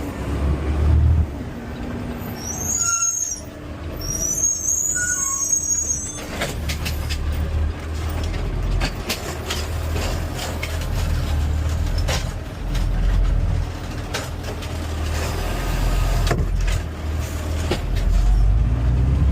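Garbage truck running with a steady low engine rumble, two short high-pitched brake squeals a few seconds in, then a run of knocks and rattles.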